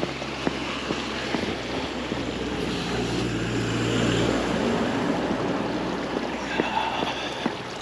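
A motor vehicle driving past, its engine and tyre noise swelling to a peak about halfway through and then fading, over the walker's footsteps at about two steps a second.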